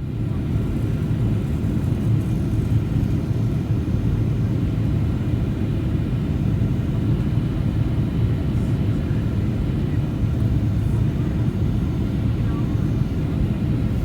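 Steady low cabin drone of a Boeing 737-800 in flight, engine and airflow noise heard from inside the passenger cabin.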